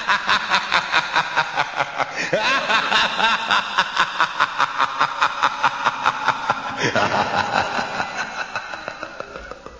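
A long run of rapid, evenly paced laughter, 'ha ha ha' about five times a second, fading near the end.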